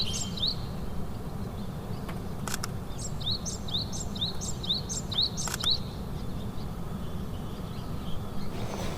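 A bird singing a run of short, quickly rising notes, about seven in a row, starting about three seconds in, over a steady low rumble, with a couple of sharp clicks.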